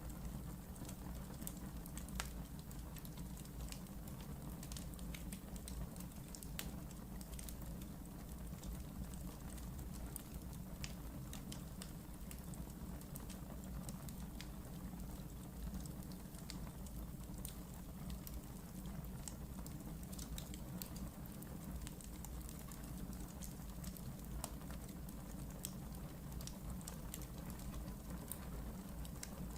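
Wood fire burning in a fireplace, with frequent small crackles and pops over a steady low rumble.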